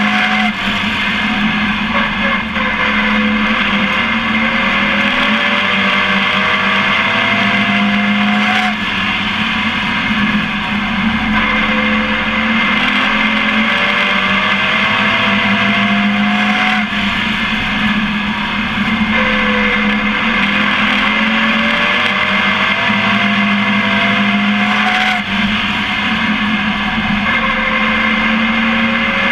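Onboard sound of a Dodge Ram pro race truck's engine at racing speed: the engine pitch climbs for several seconds, then drops back, and this repeats roughly every eight seconds, as it accelerates out of each turn and lifts into the next. Heavy rushing wind and road noise runs underneath.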